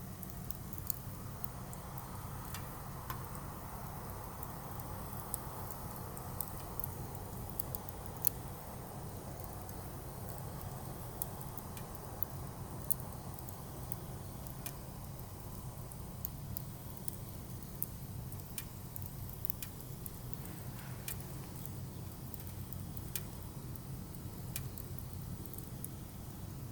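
Firewood burning, with scattered sharp crackles and pops over a steady low noise of the fire.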